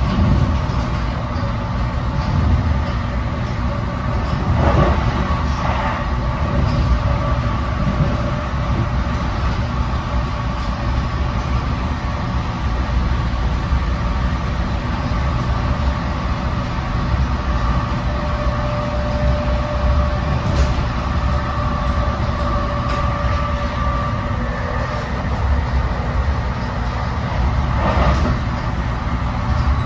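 Steady rumble of steel wheels on the rails heard inside a moving NJ Transit Multilevel passenger coach at speed. A faint steady whine runs over it, with a few brief clicks from the running gear.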